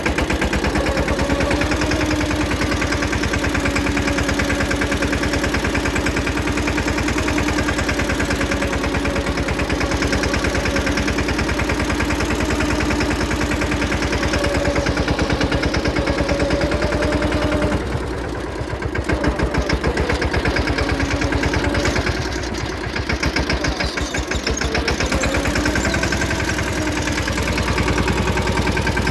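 Mini tractor engine running steadily with a fast, even pulsing beat. Its sound drops away briefly about 18 seconds in and again around 22 to 25 seconds, then comes back up.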